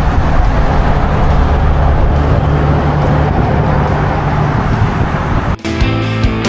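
Road traffic noise with a steady low engine hum. About five and a half seconds in it cuts off abruptly and guitar rock music starts.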